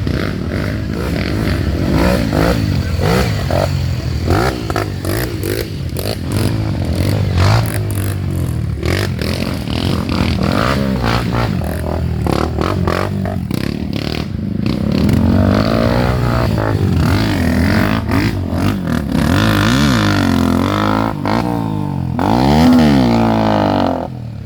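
Several off-road dirt bike engines revving, their pitch rising and falling and overlapping, with clattering. Near the end one engine revs hard, climbs and drops back.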